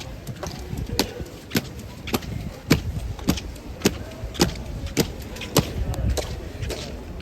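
Honor guards' boots striking the pavement in unison in marching step, a sharp, evenly timed strike a little under twice a second over a steady low rumble.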